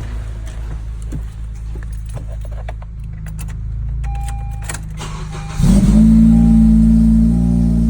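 Car cold start: keys rattle and click against a steady low hum, a short electronic chime sounds about four seconds in, then about five and a half seconds in the engine cranks, fires and goes straight into a loud, fast cold idle.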